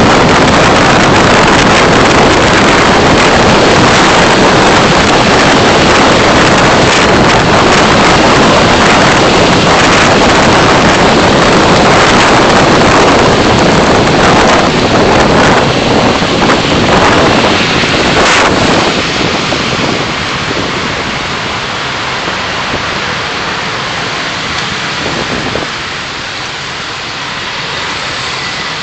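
Car driving noise picked up by a dashcam microphone: a loud, steady rush of wind and road noise that grows quieter from about 19 seconds in.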